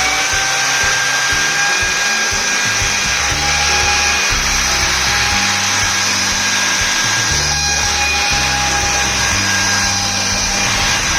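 High-speed electric fan running flat out: a steady high-pitched motor whine over the rush of air.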